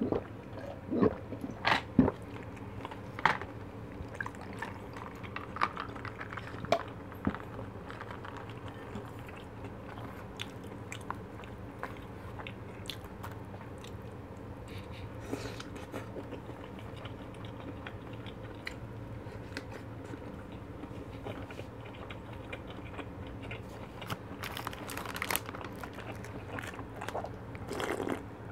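Close-up eating sounds of a person chewing fish cake and fried food: wet chewing with sharp crunches and mouth clicks, busiest in the first several seconds and again near the end.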